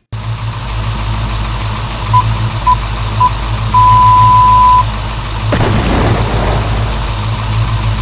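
Deep engine rumble under a race-start countdown of three short beeps and one long beep. About five and a half seconds in, the engine sound turns rougher as the vehicles set off.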